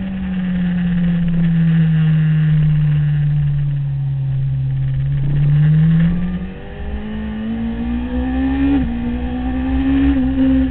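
Motorcycle engine under riding load: the revs sink slowly for about five seconds through a corner, then climb as the throttle opens, with a sudden drop near the end like an upshift before climbing again. Wind buffets the microphone.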